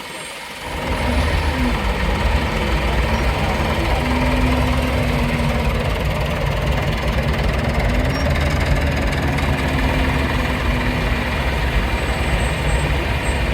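A vintage vehicle's engine running close by, coming up loud about a second in and holding steady with a low, uneven beat.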